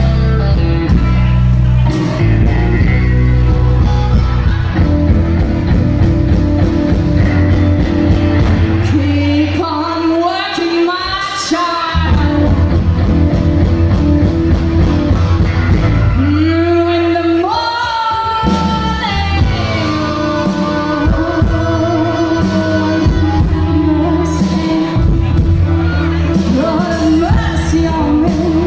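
Live blues-rock band playing: singing over electric guitar, bass and drums. Twice the bass and drums drop out for a couple of seconds, leaving bending high lines on their own before the band comes back in.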